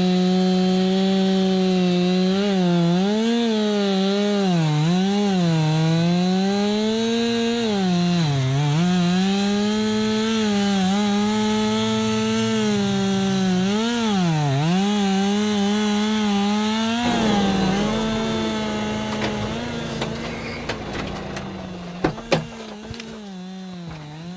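Stihl MS 261 two-stroke chainsaw running at full throttle while cutting wood, its engine pitch dipping and recovering again and again as the chain bogs in the cut. About 17 seconds in the sound changes and fades away, with a few sharp clicks near the end.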